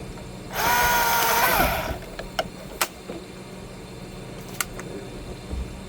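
A chainsaw revs once for about a second and a half at a steady pitch, then drops away as the throttle is released. A few sharp clicks follow.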